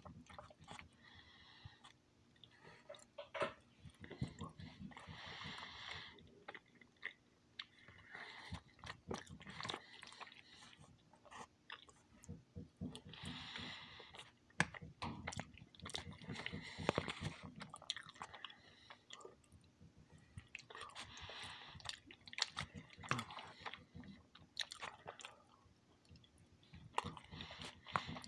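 A person chewing macaroni and cheese close to the microphone: many small mouth clicks and smacks, in runs of chewing that recur every few seconds.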